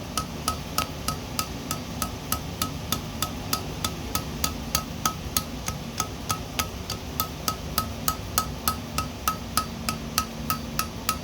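Light hand-hammer blows on hot steel over an anvil, drawing out a small taper: a steady, even rhythm of about three and a half strikes a second, each with a short metallic ring. A steady low hum runs underneath.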